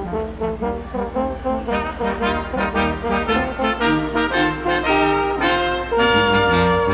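Brass ensemble of trumpets and trombones playing a run of short, quick notes that build to a loud held chord about six seconds in.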